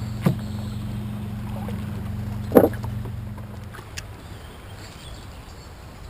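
Fishing kayak on the water. A steady low hum dies away a little past halfway, with a short knock just after the start and a louder knock about two and a half seconds in.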